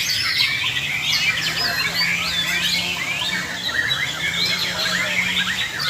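Several white-rumped shamas singing at once, a dense overlap of whistled phrases, rising and falling glides and quick chirps, as birds compete at a songbird contest ground.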